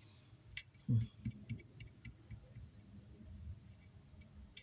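A few faint, light clicks and a soft knock about a second in, over a low hum: small handling noises on a workbench.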